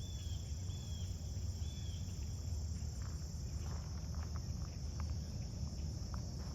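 Steady high-pitched insect chorus, crickets or similar, over a low steady rumble, with three short high chirps in the first two seconds and a few faint clicks later on.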